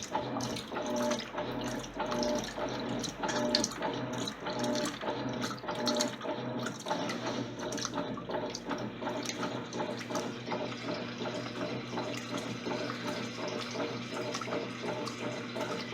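Electrolux LTC10 top-loading washing machine running its jeans program: water sloshing and splashing in the tub over the motor's hum, which pulses about once a second at first and evens out about halfway through.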